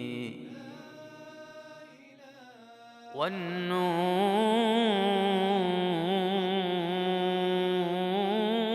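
Male voice chanting an Islamic ibtihal in long melismatic phrases. A held note trails off over the first few seconds, then about three seconds in a new phrase scoops up and is held with a wavering, ornamented pitch.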